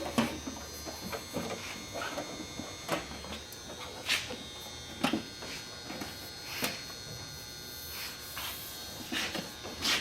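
Steady electric buzz with scattered light knocks and clicks, roughly one a second, as a sheet-metal panel is worked on a shaping tool.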